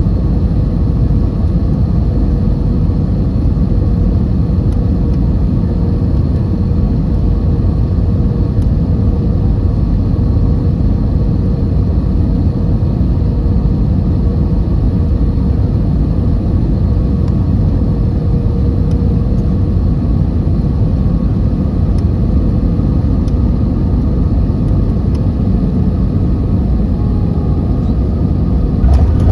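Steady low rumble of an Airbus A320 heard from inside the passenger cabin, the engines' hum carrying a few faint steady tones.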